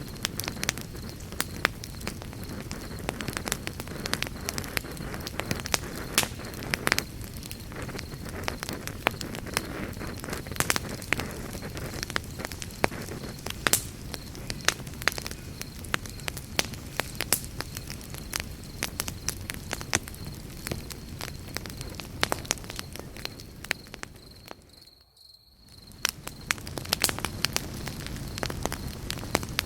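Campfire crackling, with frequent sharp pops and snaps over a steady low rush of burning wood. Near the end the sound fades almost to nothing and then swells back up.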